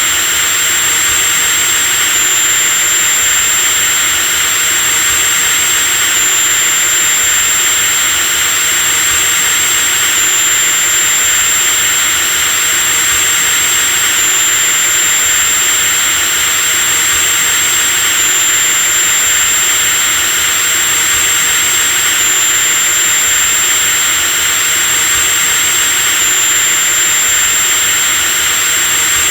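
Electric drill running continuously at a steady speed: a dense motor hiss with a thin, steady high-pitched whine on top.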